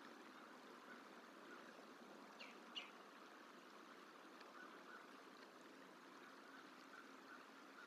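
Faint outdoor background: a steady hiss like running water, with faint repeated bird calls and two short high chirps about two and a half seconds in.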